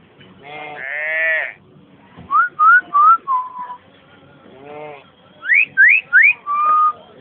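Pet talking bird calling and whistling: one long call, then a run of three quick rising whistles ending on a held level whistle, a shorter call, and a second run of three rising whistles ending on a level whistle.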